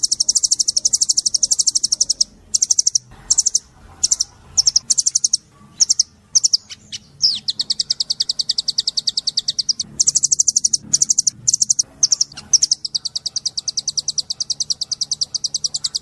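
White-eye (pleci) singing its 'tembakan': fast runs of high, evenly repeated notes, about ten a second. The runs are broken into short bursts with brief gaps near the middle, and one falling note comes about seven seconds in. A faint low hum sits under the song.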